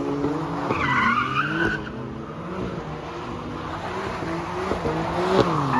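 A car engine revving up and down as the car spins its tyres in donuts, with tyre squeal about a second in and again near the end.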